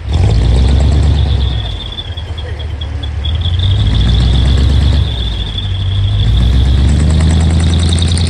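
A decorated truck's engine running loudly in long surges of revving as it pulls out, with a steady high-pitched squeal over it.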